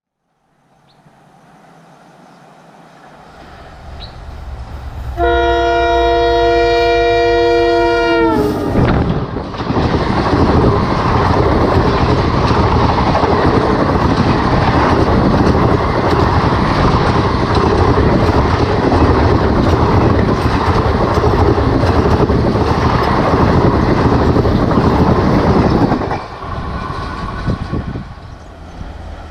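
Indian Railways superfast express train passing at speed. It approaches with a rising rumble, and the locomotive sounds a multi-tone horn about five seconds in for roughly three seconds; the pitch drops as it passes. A loud, steady rush of the coaches going by follows and cuts off sharply near the end, leaving a fainter rumble.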